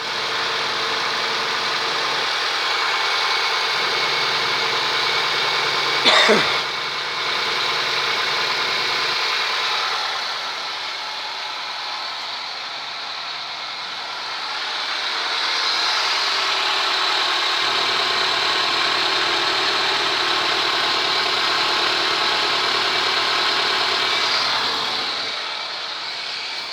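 Toyota 2AZ-FE 2.4-litre inline-four engine running at idle, steady, with a brief sharp noise about six seconds in and a slightly quieter stretch around ten to fifteen seconds in.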